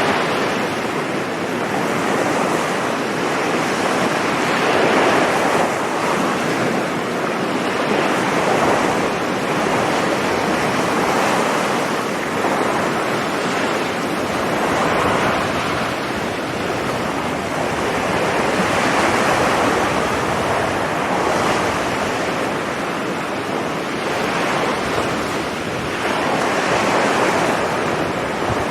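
Sea surf breaking and washing on a beach, a continuous rush that swells and eases every few seconds as waves come in, with some wind on the microphone.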